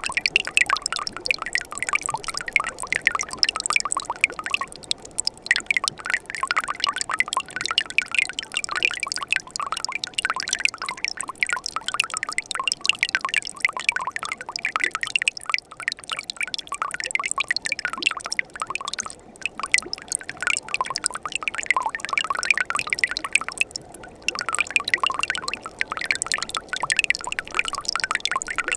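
Winter mountain stream running and splashing among rocks and ice, a dense patter of small trickles and drips that thins briefly now and then.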